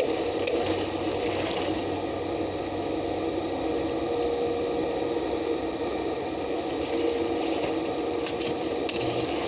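Stick (arc) welding on steel: a steady sizzling arc with scattered crackles, thinning out in the middle and thickening again near the end.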